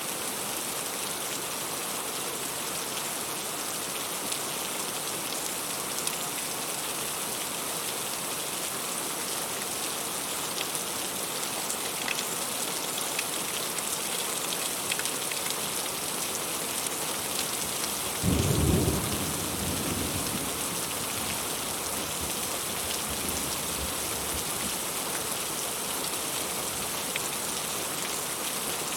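Heavy rain falling steadily, with a short, low clap of thunder about two-thirds of the way through that rumbles off over a couple of seconds.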